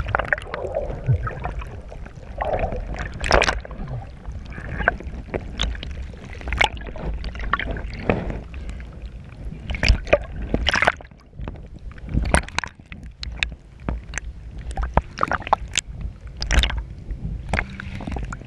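Water splashing and sloshing close to the camera in irregular slaps, over a steady low rumble.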